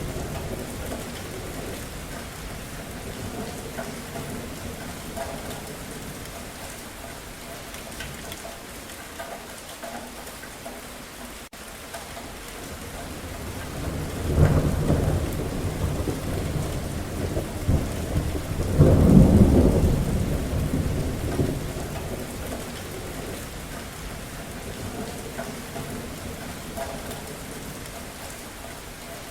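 Thunderstorm: steady rain falling with rolling thunder. A low rumble fades in the first seconds, a roll of thunder builds about halfway through, and a louder one peaks about two-thirds of the way in before dying away under the rain.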